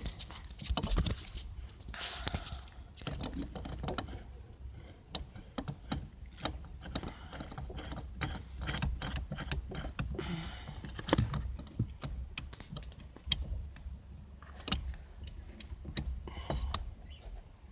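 Hand tools tightening the bolts of a harmonic puller onto a steering wheel hub: a long run of small metallic clicks and knocks, coming several a second through the middle stretch.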